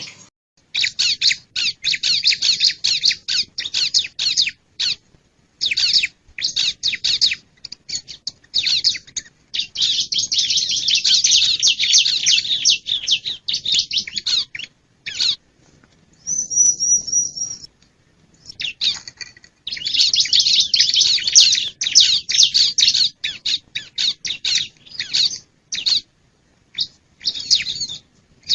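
Bar-winged prinia (ciblek) song: loud bouts of rapid, high chattering notes broken by short pauses, with a brief thin, high whistled note about two-thirds of the way through.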